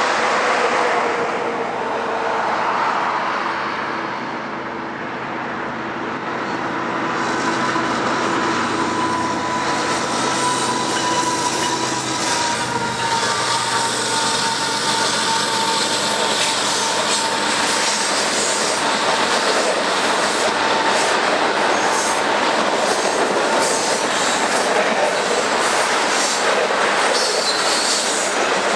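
A Canadian Pacific freight train passing at speed, led by a GE ES44AC diesel locomotive. The engine runs past with a steady high wheel squeal through the middle. Then a string of glycol tank cars rolls by, with steady rolling noise and wheels clicking over the rail joints.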